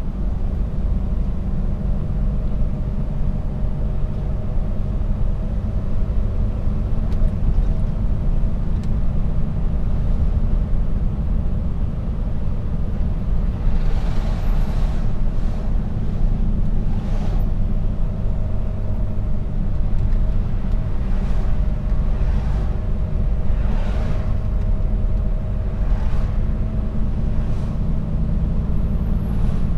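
Mercedes-Benz Actros truck on the move, heard from inside the cab: a steady low drone of engine and road noise, with several short hisses in the second half.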